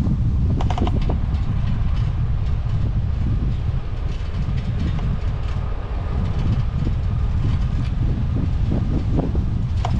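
Wind buffeting the microphone of a moving bicycle rider, a heavy steady rumble, with a few short clicks and rattles about half a second in and again near the end.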